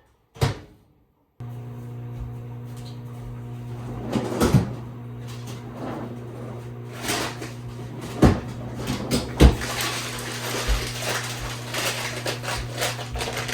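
A microwave oven door shuts, and about a second later the microwave starts running with a steady low hum. A few sharp knocks and clatters sound over the hum.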